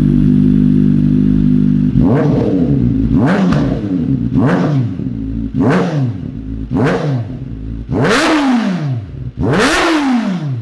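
2023 Kawasaki Ninja ZX-4RR's 399 cc inline-four running steadily, then revved in seven quick blips about a second apart. Each rev rises and falls back, and the last two go highest.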